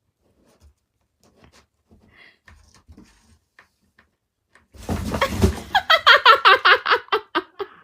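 Faint ticks, then a loud rustling burst and a fast run of short, high-pitched vocal calls, about five or six a second, like rapid laughing or squealing.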